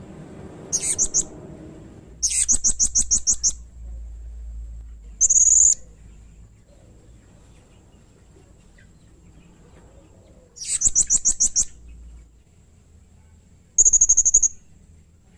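Blue-crowned hanging parrot (serindit) calling in high-pitched bursts: three quick trills of rapid repeated notes, the longest over a second, with two short single squeaks between them.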